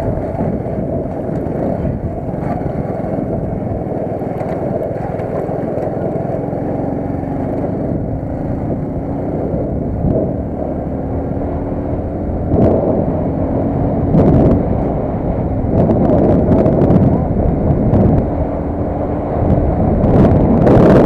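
Steady rumble and wind noise of a vehicle being ridden, with a faint steady tone through the middle and a few sharp knocks in the second half.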